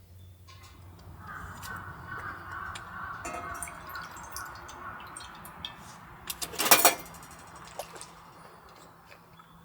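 Liquid pouring with a steady hiss for a few seconds, then a short, sharp clatter a little before seven seconds in.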